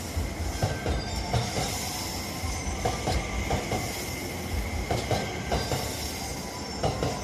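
Electric passenger train passing alongside the platform: a steady rumble of the cars with recurring wheel knocks over rail joints, often in pairs, and a thin, steady high wheel squeal.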